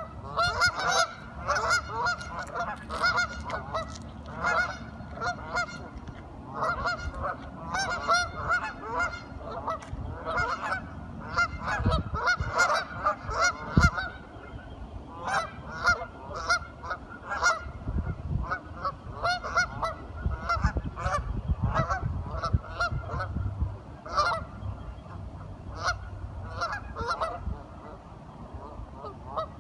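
A group of ducks calling, many short quacking calls overlapping one another. The calls are busiest in the first half and thin out to scattered single calls after about fifteen seconds.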